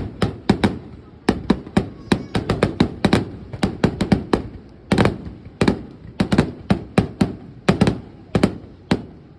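Fireworks going off in a rapid, irregular string of sharp bangs, about three a second, each with a short echo, the loudest about five seconds in.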